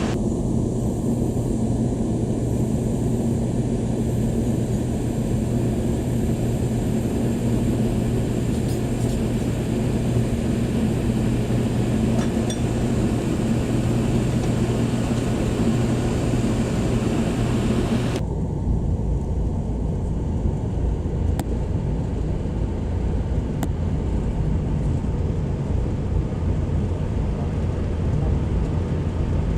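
Passenger train running along the line: a steady rumble and rolling noise with a low hum. About two-thirds of the way through, the sound changes abruptly to a deeper, duller rumble.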